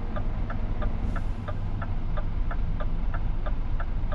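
Indicator of a Scania truck ticking in the cab, about three clicks a second, over the low rumble of the diesel engine.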